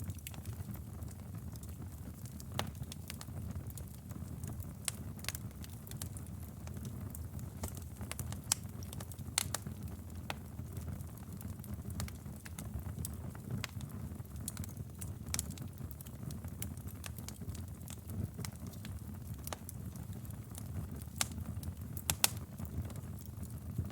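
Wood fire burning in a fireplace: a steady low rumble of flames with irregular crackles and sharp pops, a few louder snaps scattered through.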